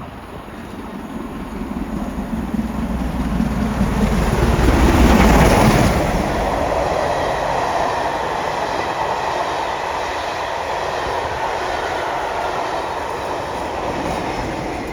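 A train passing through the station: the sound builds to a loud rush about five seconds in, then the wheels keep running over the rails steadily as the train goes by, easing off near the end.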